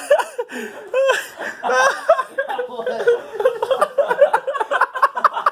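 Excited laughter and high-pitched voices from several people.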